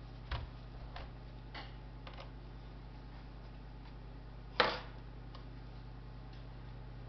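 Scattered sharp clicks and light taps of a laptop's plastic and metal parts being handled during disassembly, the loudest about four and a half seconds in, over a steady low electrical hum.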